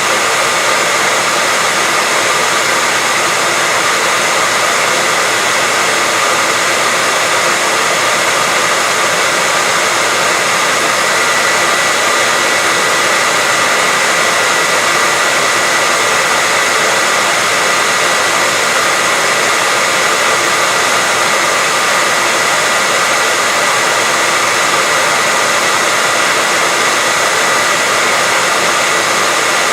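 Continuous white noise: a steady, even hiss that never changes, with a faint high tone held within it.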